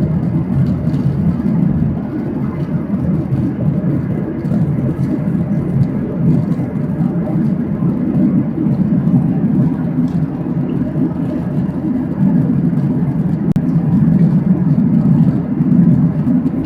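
Steady low roar inside the passenger cabin of a Boeing 737-800, from its CFM56 engines and the airflow.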